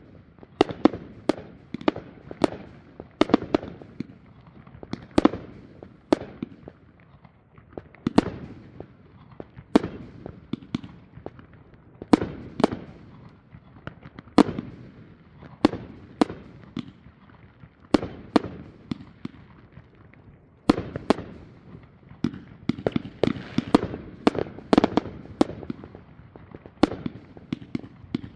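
Fireworks going off: an irregular series of sharp bangs, each with a short echoing tail, one to several a second, growing busier in the last third.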